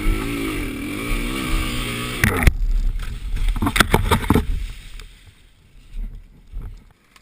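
Dirt bike engine running with its note rising and falling, cutting off suddenly about two and a half seconds in. A few sharp knocks follow about four seconds in, then it goes quieter.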